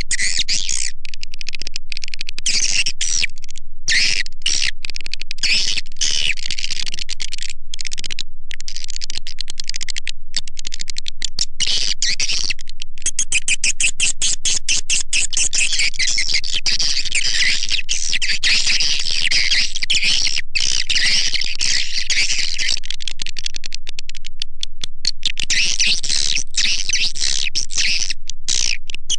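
Recorded swiftlet call used to lure birds into a swiftlet house: a dense, loud chatter of rapid high chirps and twitters with many short breaks, looping on without pause.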